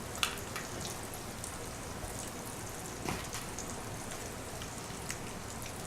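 Flour-coated steaks frying in a shallow layer of hot oil in a pan: a steady sizzle with a few scattered pops and crackles.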